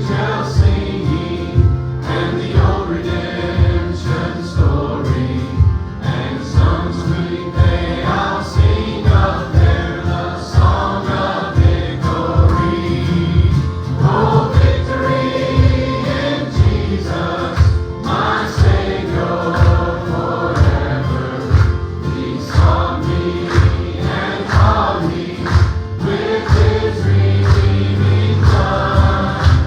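Youth choir singing a gospel worship song over a band, with a steady beat and a strong bass line.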